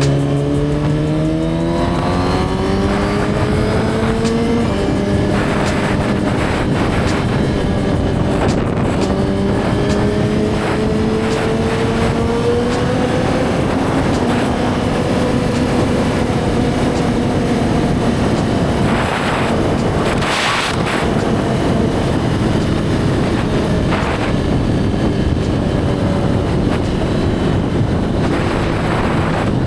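Suzuki GSX-R1000's inline-four engine pulling under way: revs rise over the first few seconds, dip at an upshift about four to five seconds in, climb again, then settle at a steady cruise. A brief rushing noise comes about twenty seconds in.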